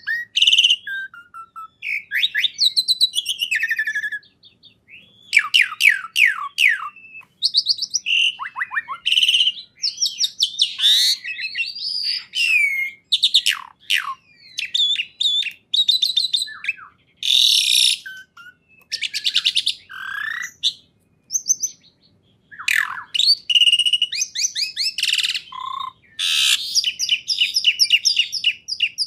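A songbird singing a fast, varied song of rapid trills, chirps and whistled glides, in short phrases separated by brief pauses.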